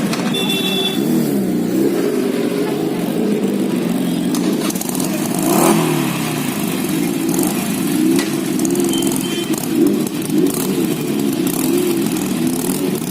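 Motorcycle and vehicle engines running steadily in street traffic, with a brief swell in level near the middle. Short high-pitched beeps sound near the start and again about two-thirds of the way through.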